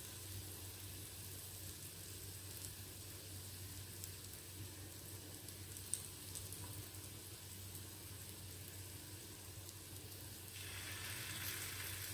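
Soft, steady sizzling of besan-dipped bread slices frying in butter in a nonstick pan, with batter spooned over the top; the sizzle grows a little louder near the end.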